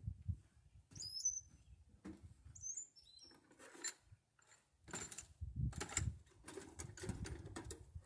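Small birds chirping in short, quick, high calls, twice in the first three seconds, over a low rumble. From about four seconds in there is a run of clicks and rustles of something being handled.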